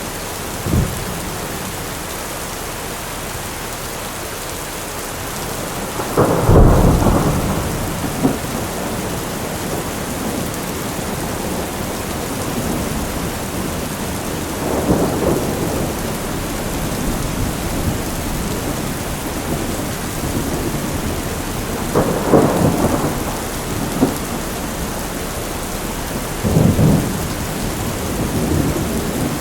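Thunderstorm: steady heavy rain with rolls of thunder about 6, 15, 22 and 27 seconds in, the first the loudest.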